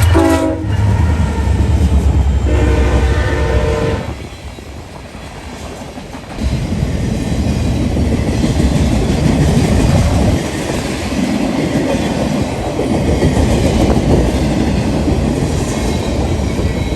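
Norfolk Southern diesel freight train passing close by: its horn sounds with a pitch that drops at the start, a second horn blast follows about two seconds in over the locomotives' heavy rumble, then the freight cars rumble and clack over the rails.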